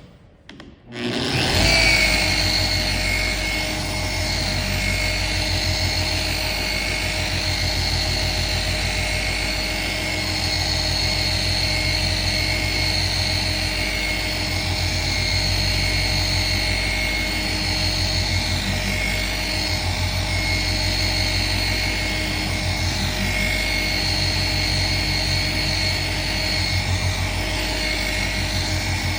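Handheld paint-correction power tool starting up about a second in, then running steadily with a constant whine and a fast low flutter as it works out small paint defects in the finish.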